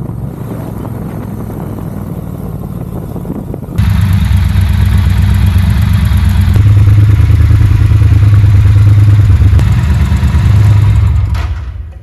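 Triumph Bonneville Bobber's 1200 cc parallel-twin engine running under way. It jumps sharply louder about four seconds in, then dies away near the end.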